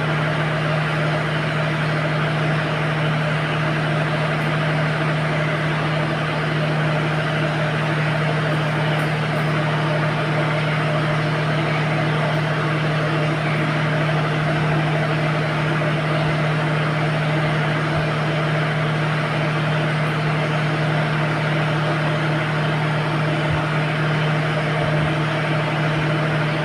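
An engine running steadily at a constant speed, with a strong low hum that does not change.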